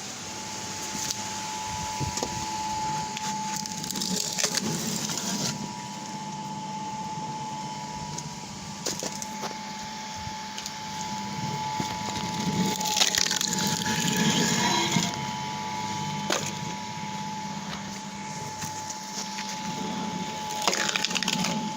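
Screw-cone log splitter driven by an electric motor with a heavy flywheel: the steel cone bores into logs, and the wood cracks and splinters in bursts about four seconds in, again around thirteen to fifteen seconds, and near the end, over a steady whine of the running machine.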